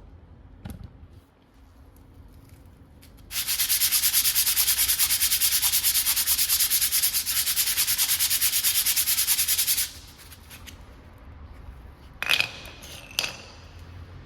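Fast, even scrubbing on a brake part, like sanding or wire-brushing, for about six and a half seconds, then two sharp metallic clinks near the end.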